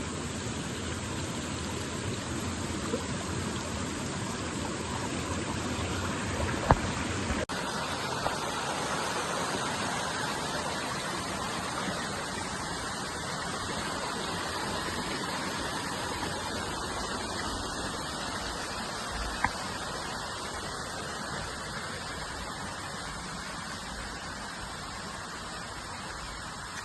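Steady rush of flowing water from a stream or waterfall. The water sound changes abruptly about seven seconds in, and a few brief sharp clicks stand out.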